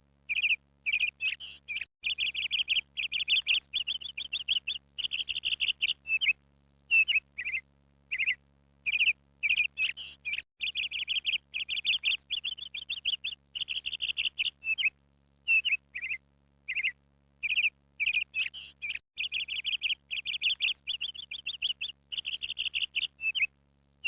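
Bird chirping in short calls and quick trilled phrases, with brief silences between them; the same run of calls repeats about every eight and a half seconds.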